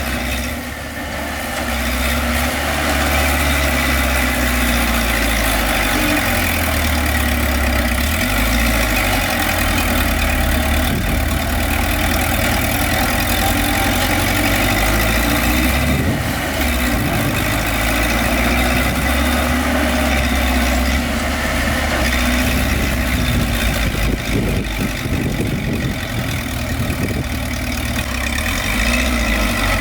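Heavy diesel engines of dump trucks and a bulldozer running steadily, with the engine note shifting now and then.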